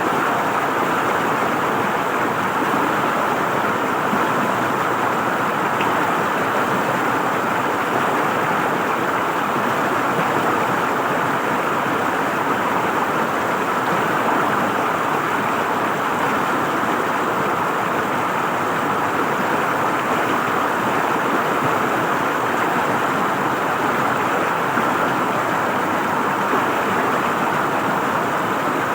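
River water flowing and gurgling steadily over rocks, a constant rushing without change.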